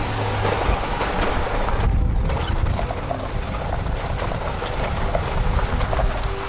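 4x4 truck camper driving on a steep, rough gravel road: a steady low rumble of engine and tyres under a wash of road and wind noise.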